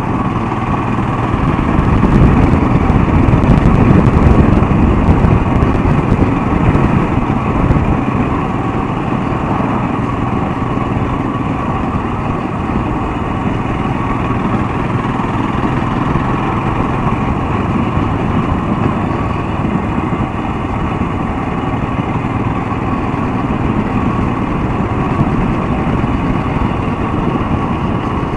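Royal Enfield Himalayan motorcycle engine running steadily while riding, swelling a little louder for a few seconds about two seconds in.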